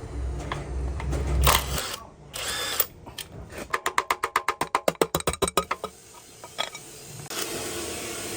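Workshop tool noise on engine parts: a low steady hum for the first couple of seconds, then a rapid, even run of about fifteen sharp clicks over two seconds.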